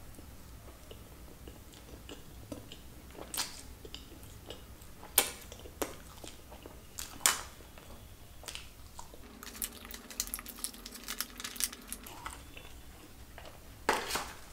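Close-miked chewing and wet mouth sounds of a person eating loaded fries, with a few sharp loud clicks scattered through and a quick run of small clicks near the middle.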